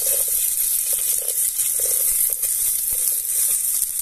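Chopped onion and garlic sizzling in hot olive oil in an aluminium pot, a steady frying hiss with scattered crackles as the onion goes in.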